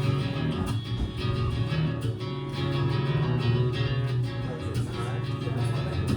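Guitar playing the instrumental opening of a song, plucked and strummed in a steady rhythm with a strong low bass line, before any singing.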